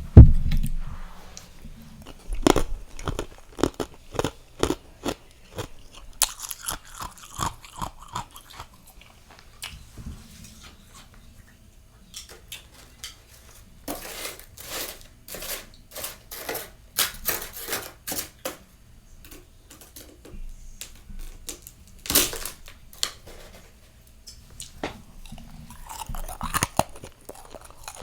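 Close-up chewing and crunching of soft, fluffy freezer frost, in repeated bursts of crisp crackles. A loud knock comes right at the start.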